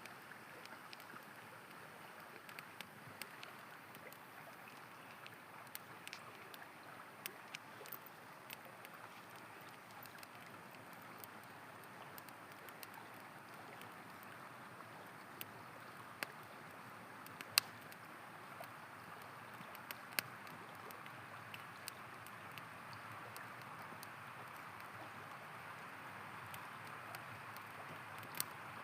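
River water flowing steadily, with a campfire's wood crackling in scattered sharp pops, two of them louder than the rest about two-thirds of the way in.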